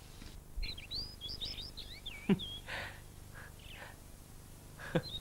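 Small birds chirping and twittering in short, quick high calls. Two sudden downward sweeps, about two seconds in and again near the end, stand out as the loudest sounds.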